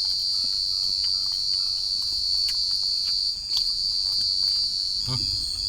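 Steady, high-pitched insect chorus of forest crickets, with a few faint ticks over it.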